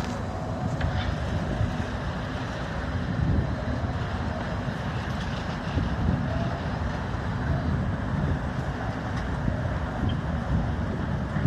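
Wind buffeting the microphone high on a tower crane: a steady, gusting low rumble that swells and eases.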